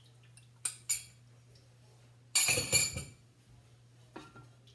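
Kitchen utensils clinking against a cooking pot and glassware while soy sauce is added to the sauce: two light taps about a second in, then a louder run of clinks a little past halfway. A steady low hum underneath.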